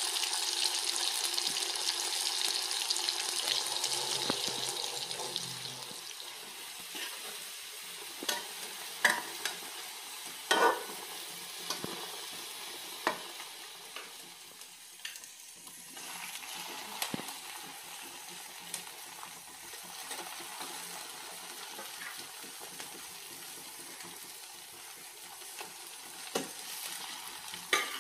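Chicken pieces deep-frying in oil in a metal kadai: a steady sizzle that is loud for the first several seconds, then quieter. A metal spoon stirring in the pan makes scattered sharp clicks and knocks.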